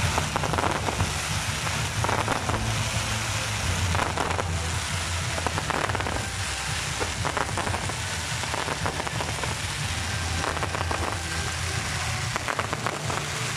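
Fireworks display going off: a dense, continuous crackling of glitter and crackle effects, made of countless rapid small pops that blur into a rain-like hiss. A low steady hum runs underneath.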